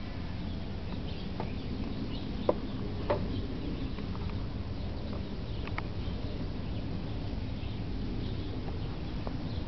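Faint bird chirps over a steady low background rumble, with two sharp clicks about two and a half and three seconds in.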